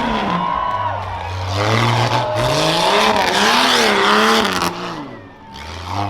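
Rough truck's engine revving hard on a dirt course, its pitch climbing and dropping again and again as the driver works the throttle, with a brief dip near the end.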